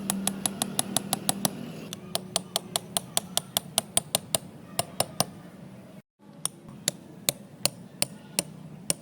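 Small hammer tapping quickly and evenly, about four or five light taps a second, briefly broken off about six seconds in and then going on more slowly.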